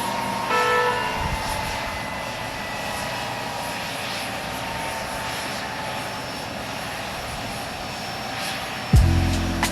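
Jet airliner engines heard as a steady rush with a high whine that slowly falls in pitch. Music with a heavy beat cuts in near the end.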